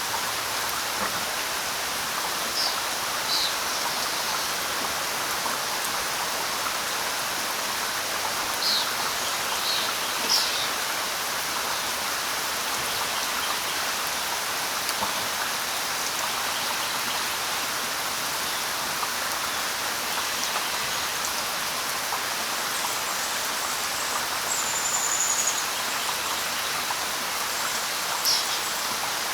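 Steady light rain falling on leaves, with a bird giving short high chirps now and then and one longer whistled note a little after the middle.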